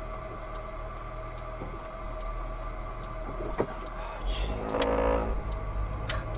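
Motor vehicle running, heard through a dashcam: a steady low engine hum that grows louder for a second or so about four seconds in, with a few faint clicks.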